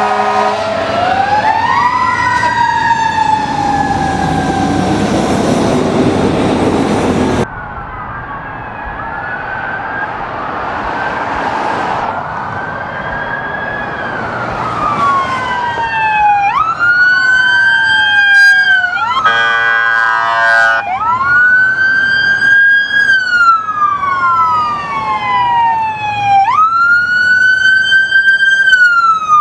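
Emergency vehicle sirens wailing on a responding vehicle. The sound opens with a steady horn chord that stops within the first second, and cuts sharply about seven seconds in. Then several sirens sweep up and down, giving way to a loud wail rising quickly and falling slowly about every five seconds, broken about two-thirds of the way through by a short burst of a rapid pulsing tone.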